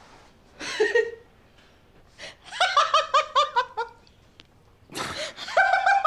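A person laughing: a short burst, then two runs of quick ha-ha-ha pulses that fall in pitch.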